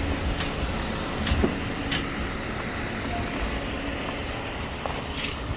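Delivery truck's engine idling with a steady low rumble, and a few light clicks over it.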